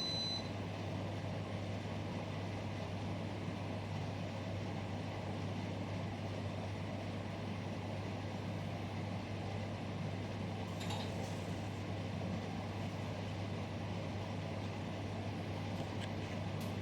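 A fireplace running with a steady low rush and a constant hum, with a few faint crackles about eleven seconds in. A short high beep sounds at the very start.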